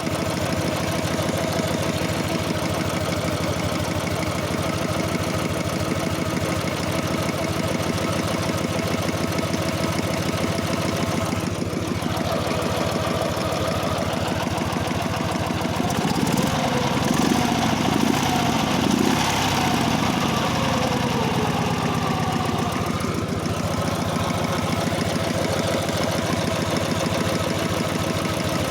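Dnepr 11 motorcycle's flat-twin engine running with a knock from the right cylinder whose cause the owner does not know. About sixteen seconds in the engine gets a little louder and its pitch wavers for a few seconds before settling back to a steady run.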